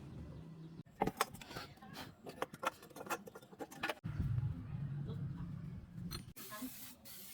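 A run of sharp clinks and taps of hard objects, then after an abrupt cut a steady low hum, then after another cut a hiss.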